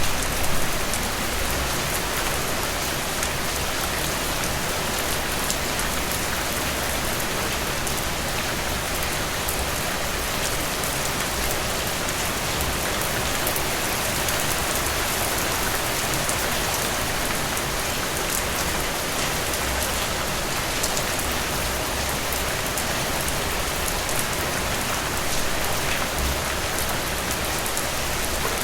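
Steady rain falling through cedar trees, an even hiss of rain with fine drop patter.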